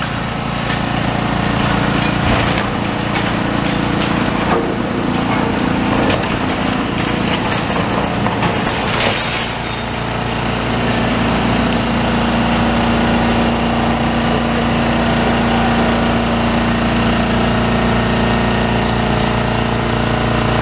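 Demolition excavator's diesel engine running under load while part of a building gives way, with crunching and clattering of breaking concrete and debris over the first half. After that the engine drone carries on steadily.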